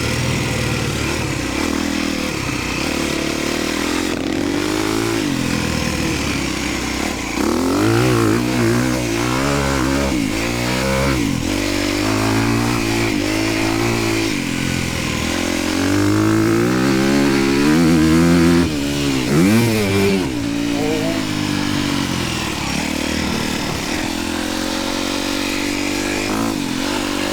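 Honda motocross dirt bike engine being ridden hard around a track, the revs climbing and dropping again and again as the rider throttles on and off through jumps and turns, with wind and track noise over it.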